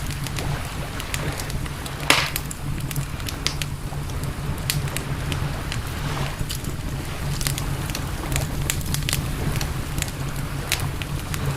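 Campfire crackling, with frequent sharp snaps and a louder pop about two seconds in, over a steady low rumble.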